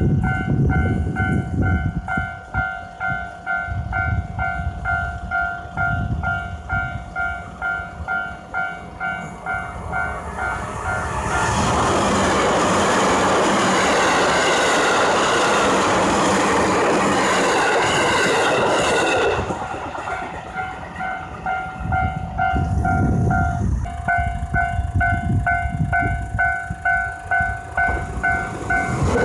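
A train running past, its wheels clacking rhythmically over rail joints, then a loud even rush from a little over a third of the way in as the cars go by close, then clacking again. A ringing chime repeats steadily under the clatter and is drowned out while the rush is loudest.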